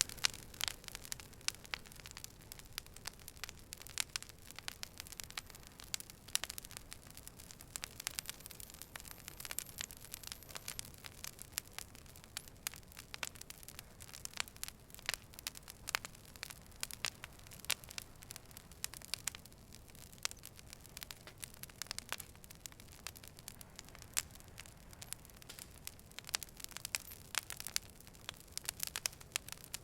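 Wood fire burning, with many sharp irregular crackles and pops over a steady low hiss.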